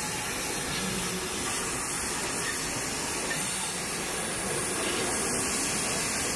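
Train of passenger coaches rolling past close by: a steady rushing noise of wheels on the rails, slightly louder near the end.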